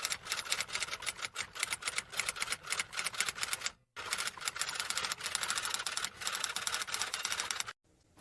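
Rapid, irregular key clicks of typing, with a short pause about four seconds in, stopping just before the end.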